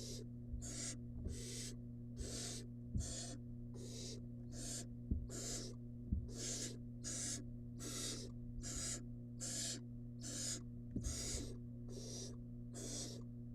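Barn owl nestling giving its rasping, hissing begging calls over and over, about two a second, with a few sharp knocks from the nest box and a steady electrical hum beneath.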